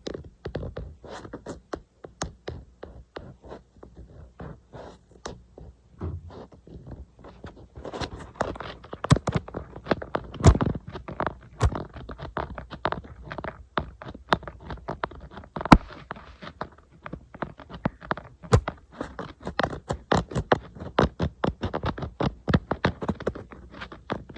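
Fingernails tapping and scratching on an iPad's glass screen and case: a fast, irregular run of light clicks and taps with brief scrapes, with a few sharper, louder taps around the middle.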